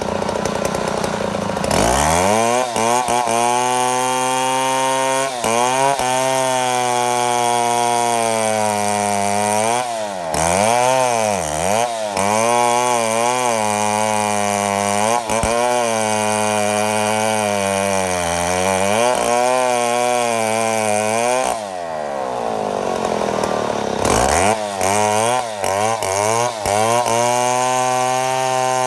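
Chainsaw milling a mahogany log. The engine revs up to full throttle about two seconds in and runs hard, its pitch dipping now and then as the chain bogs in the cut. It throttles back near the two-thirds mark, then revs up again into the cut.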